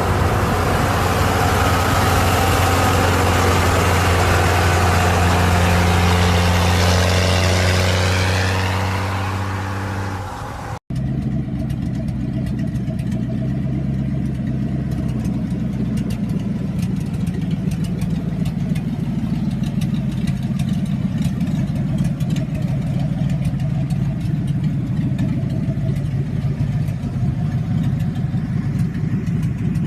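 Truck engine running steadily with a strong low hum, its pitch falling near the ten-second mark. After an abrupt cut about eleven seconds in, a rougher engine runs steadily with a lot of small ticking.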